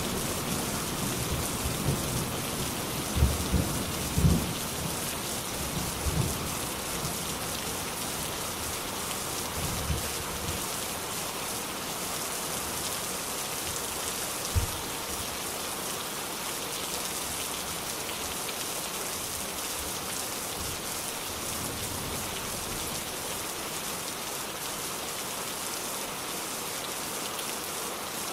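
Steady rain pouring down in an even hiss, with low rumbles of thunder fading out over the first several seconds and one last short rumble about halfway through.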